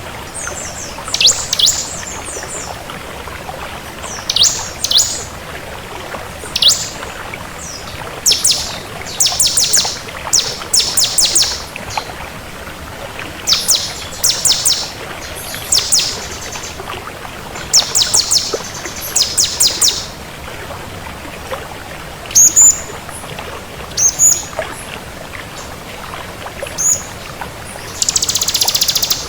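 Ciblek kristal (bar-winged prinia) singing: short bursts of high, rapidly repeated chirping notes every second or two, over a steady hiss, with a louder burst of hiss near the end.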